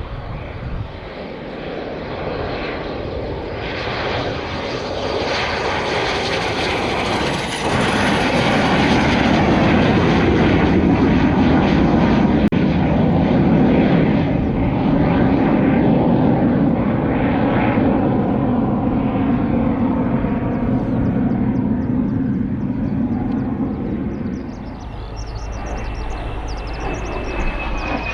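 Military aircraft engine noise building over several seconds to a loud, steady rush, then easing, with a high whine falling in pitch near the end as the aircraft passes.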